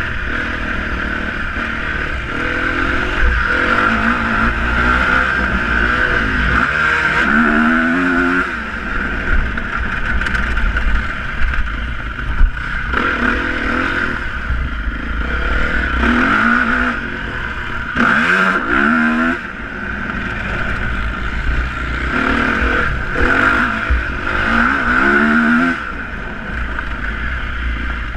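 Motocross dirt bike engines revving, rising sharply in pitch several times as the bikes accelerate, over a steady high drone.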